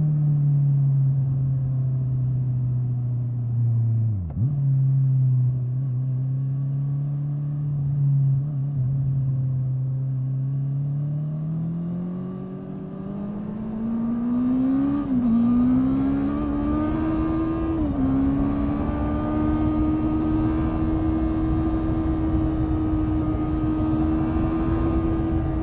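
Honda 650 inline-four motorcycle engine running on the road: steady at first with a brief dip in revs about four seconds in, then accelerating with rising pitch, two quick upshifts where the pitch drops, and settling to a steady higher-revving cruise. Wind rush grows as the speed rises.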